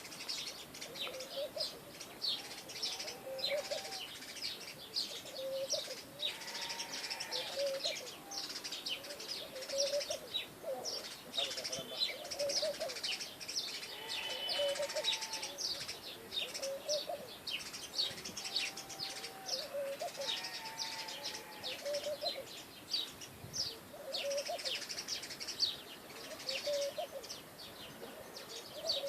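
Mixed birdsong: many small birds chirping quickly and continuously, with a lower, short call repeating every second or two.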